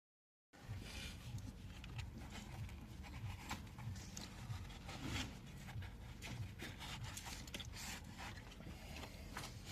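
Light rubbing and scraping with scattered short clicks, over a low throb that pulses about twice a second, starting abruptly about half a second in.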